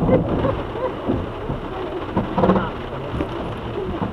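Steady rain falling, with faint voices talking under it.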